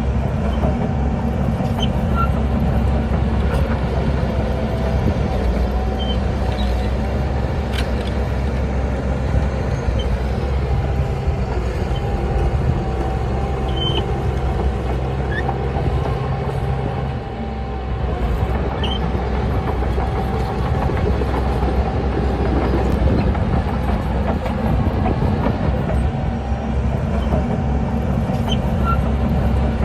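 Heavy diesel earthmoving machinery running steadily under load: a deep engine drone with mechanical clatter, easing briefly about 17 seconds in.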